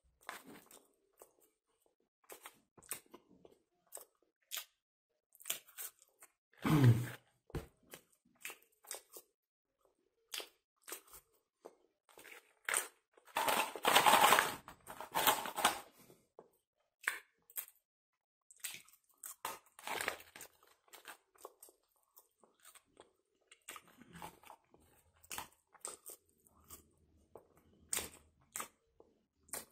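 A person chewing French fries close to the microphone, with many short mouth clicks and a louder, longer stretch of crunching about halfway through.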